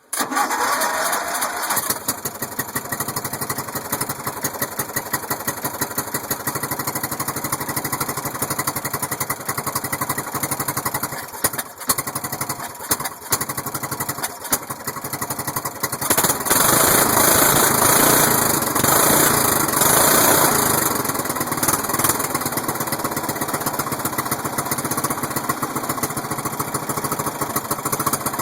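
A cold Briggs & Stratton engine on a Murray riding mower catches and runs. It stumbles with a few sharp pops around eleven to fifteen seconds in, gets louder for several seconds as it revs, then settles into steady running. The pops fit the owner's account of backfiring through the carburettor, which he thinks is dirty.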